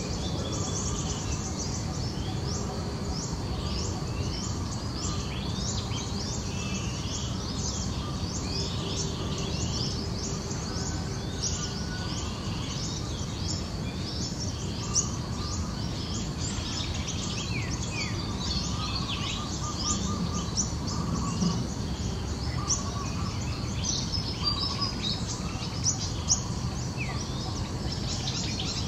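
Many small birds chirping in quick, high, downward-sweeping notes, scattered throughout over a steady background hiss.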